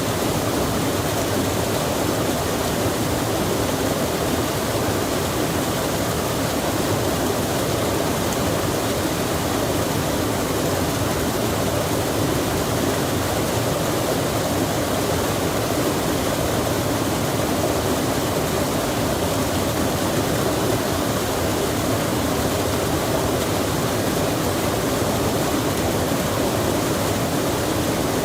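Rain falling beside a flowing stream: a steady, even rush of water with no change in level.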